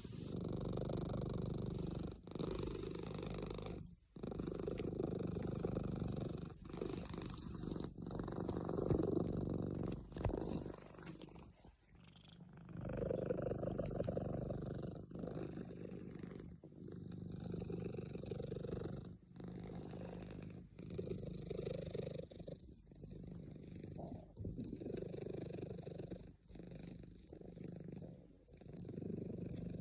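Domestic cat purring, in stretches of a second or two broken by short pauses between breaths.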